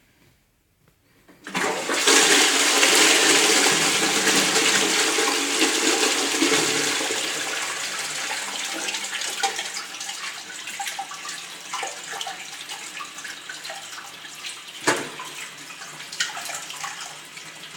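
A bowl toilet flushing: water starts rushing in suddenly about a second and a half in, is loudest for the first few seconds, then slowly dies away. A single sharp click comes near the end.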